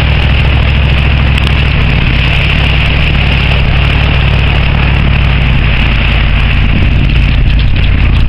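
Vehicle engine running steadily under continuous road and wind noise, as heard while driving.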